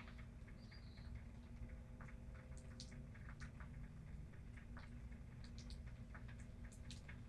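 Rainwater dripping in light, irregular ticks and patter over a low steady rumble, with a faint steady hum underneath.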